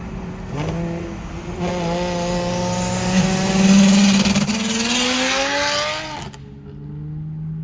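Turbocharged car engine revving up for several seconds with a loud turbo whistle and hiss rising in pitch over it. The sound cuts off sharply about six seconds in and drops back to a steady lower engine note.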